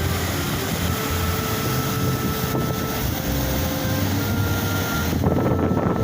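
Steady rushing noise with wind buffeting the microphone, and faint held tones that come and go every second or so.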